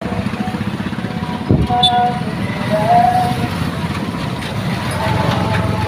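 Tractor engine running steadily with an even low rumble, a loud knock about a second and a half in, and two short high tones soon after, the second rising.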